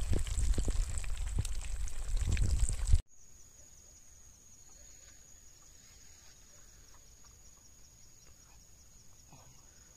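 Fish frying in hot oil in a pan over a wood fire: loud, dense sizzling and crackling that cuts off abruptly about three seconds in. After that only a faint outdoor background remains, with a steady high whine.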